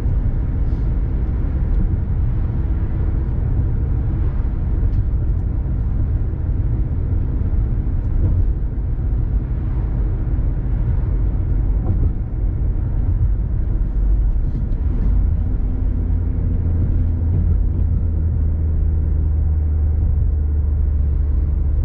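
Car driving at a steady cruise, heard from inside the cabin: a continuous engine hum and tyre and road rumble.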